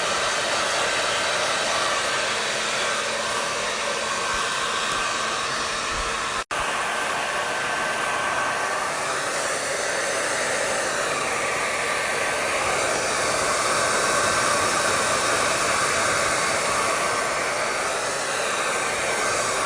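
Hair dryer running steadily, an even rush of blown air over a faint motor hum. It cuts out for an instant about six and a half seconds in, then carries on unchanged.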